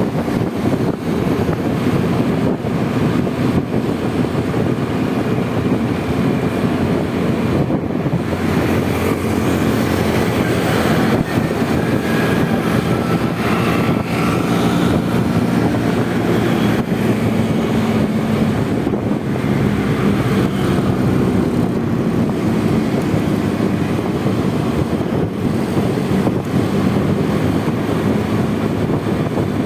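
Honda Vario 125 scooter riding along, its small single-cylinder engine humming steadily under loud wind rushing over the microphone.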